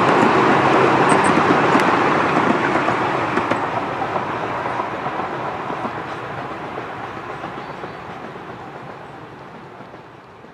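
Miniature railway passenger carriages rolling along the track, their wheels running on the rails, the sound fading steadily as the train draws away.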